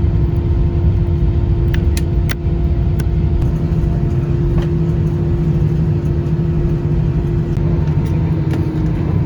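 Airbus A320-200 cabin noise while the airliner taxis after landing: a steady engine rumble and hum that dips slightly in pitch near the end, with a few faint clicks about two to three seconds in.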